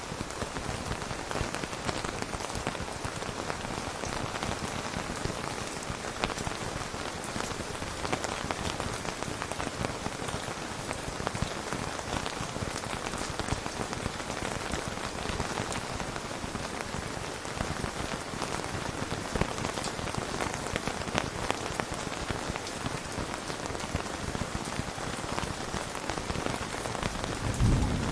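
Steady rain falling, an even hiss with scattered drop ticks. A low thunder rumble begins near the end.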